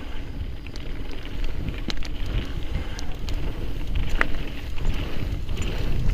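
Wind buffeting the microphone over the rumble of a mountain bike rolling down a loose scree trail, with scattered clicks and rattles from stones and the bike, and a short squeak about four seconds in.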